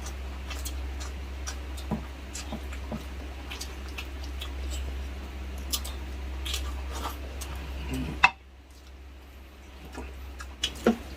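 Light clicks and taps of kitchen utensils and dishes over a steady low hum. About eight seconds in, a sharp click comes and the hum stops.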